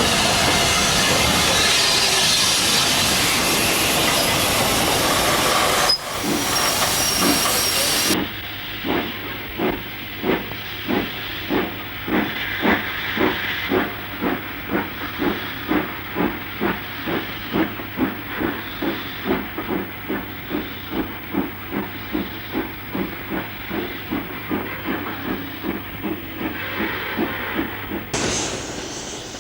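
Loud steam hiss for the first few seconds. Then, after a cut, a two-cylinder LMS Stanier Black Five steam locomotive works steadily, its exhaust beating evenly about twice a second over a steady low hum, in a dull, narrow-sounding old recording.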